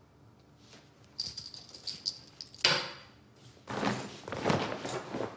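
Small metallic objects jingling and clinking, then a sharp knock about two and a half seconds in, followed by a few seconds of irregular rustling and scraping handling noise.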